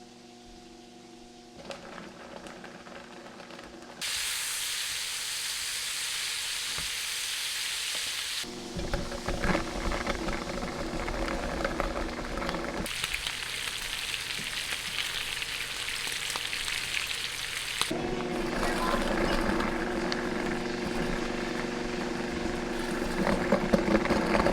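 Food frying in hot oil in a pan, sizzling with scattered crackles. The sizzle comes and goes in abrupt steps as the shots change, louder in some stretches than others.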